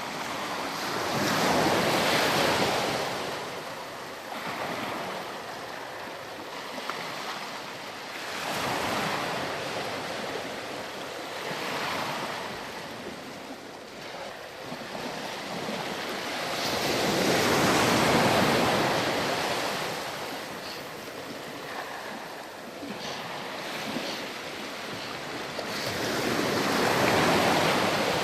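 Ocean surf washing onto a sandy beach: waves break and draw back in slow surges every few seconds, the biggest near the start, in the middle and near the end.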